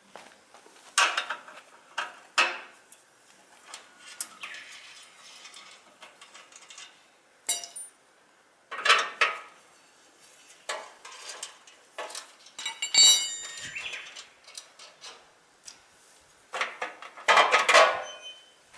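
Irregular clinks, knocks and rattles of metal tools and small parts being handled, with a short metallic ring about thirteen seconds in and a louder clatter near the end.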